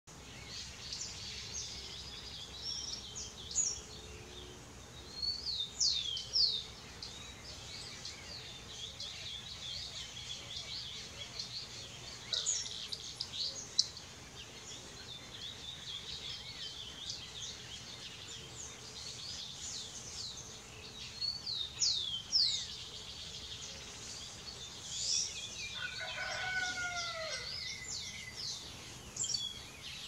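Birds chirping throughout, with quick high calls and sharp downward-sweeping whistles. About 26 s in, a lower, descending call sounds several times over.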